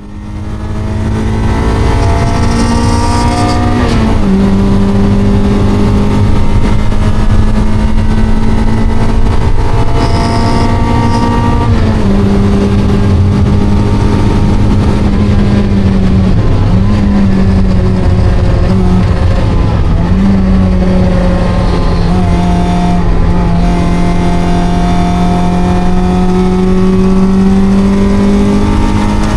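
Mazda NB Miata's 1.8-litre four-cylinder engine, stock, running hard at high revs under load. Its pitch climbs slowly and dips sharply about four, twelve, sixteen and twenty seconds in, then climbs again, over heavy road and wind rumble.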